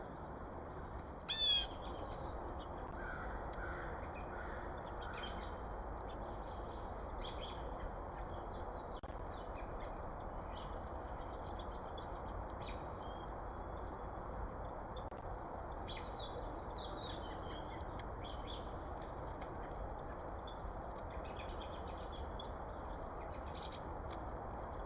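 Birds calling: short, scattered chips and notes over a steady background hiss. There is one louder, harsh call about a second in and another sharp call near the end.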